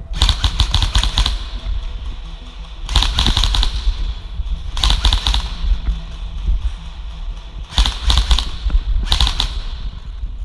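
Airsoft electric rifle firing five short full-auto bursts, each a rapid string of clicks lasting about a second, with pauses of one to two seconds between them.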